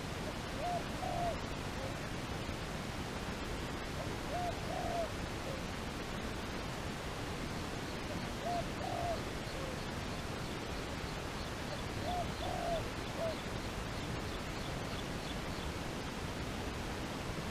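A dove cooing in short two- to three-note phrases, repeated about every four seconds four times, over a steady hiss of background noise.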